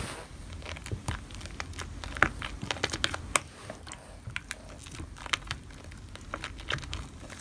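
Slime being worked by hand, giving irregular small crackling clicks and pops over a faint low hum.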